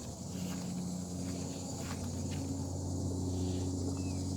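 A steady low mechanical hum that grows slightly louder, with crickets chirping steadily behind it.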